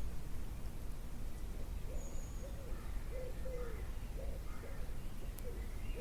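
A bird giving a quick run of short, low calls, about eight of them, starting about halfway in, with a single faint high chirp from another small bird a little earlier. A steady low rumble runs underneath.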